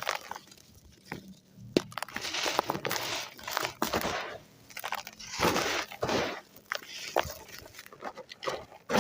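Dry, hand-made lumps of gritty red sand crumbled by hand: a run of gritty crunches and crackles, each lasting about half a second to a second, with small sharp snaps among them.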